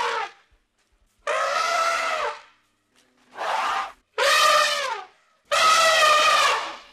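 African elephant trumpeting: the tail of one call at the start, then four loud blasts of half a second to a second each with short silences between, some dropping in pitch at the end.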